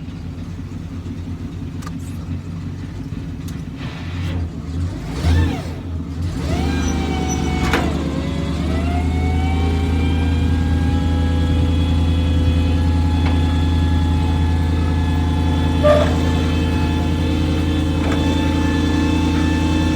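Hook-lift truck engine idling, then revving up about six seconds in and holding a steady higher speed with a whine as the hydraulic hoist drives the dumpster load-up. A few sharp clanks come through, one near the end.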